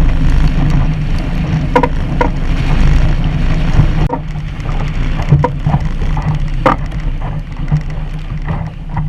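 Wind buffeting an old GoPro Hero 3's microphone aboard a small Sunfish sailboat, a steady low rumble with water noise and a few sharp knocks.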